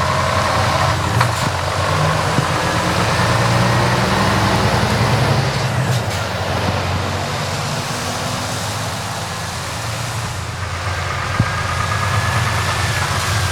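Heavy truck diesel engines running as trucks drive past, a continuous low rumble that eases slightly after the middle, with a sharp click about a second in and another near the end.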